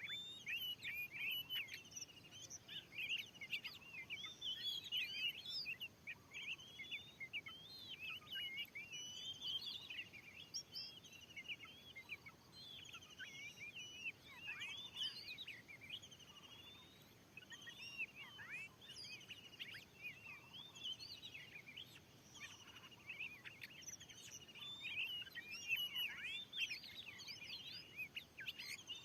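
Oriental magpie-robin (kacer) singing a continuous, varied song of quick whistles and chirps that slide up and down in pitch, over faint outdoor background noise.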